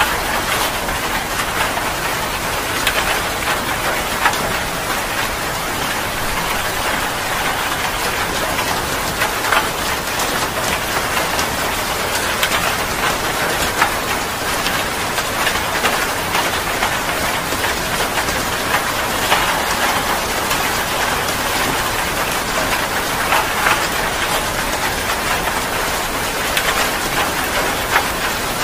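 Heavy rain falling steadily, a dense hiss with many sharp drops ticking on a surface.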